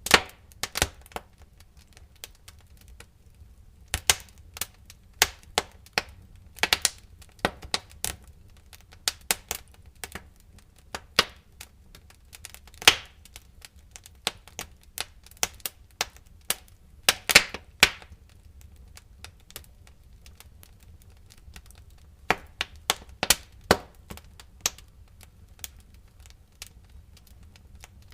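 Wood fire crackling: irregular sharp pops and snaps, some in quick clusters, over a low steady rumble of flame.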